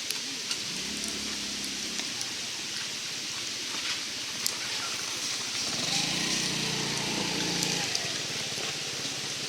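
Small wood fire crackling in a FireFly backpacking wood stove: scattered sharp pops over a steady hiss.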